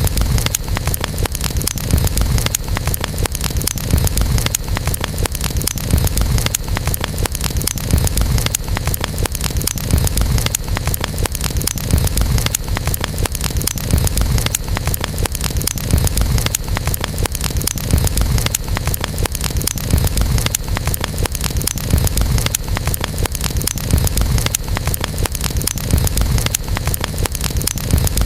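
Wood campfire crackling, with many small pops over a steady low rumble of burning.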